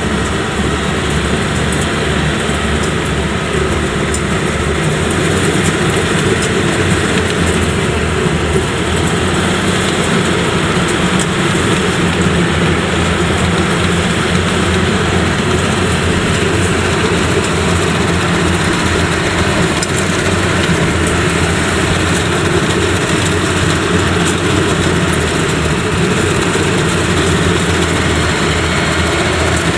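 Yanmar YH85 rice combine harvester's diesel engine running steadily under load, with the clatter of its cutting and threshing machinery.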